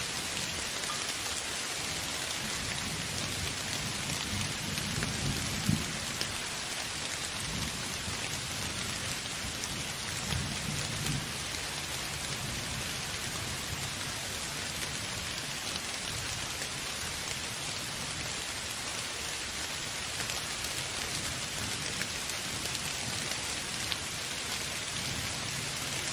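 Steady rain falling, a dense even hiss, with low rumbles of thunder rolling about five seconds in and again about ten seconds in.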